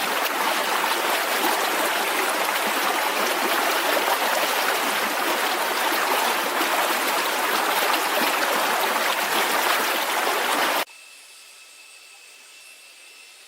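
Steady rush of flowing water that cuts off abruptly about eleven seconds in, leaving a much quieter background with a faint steady high tone.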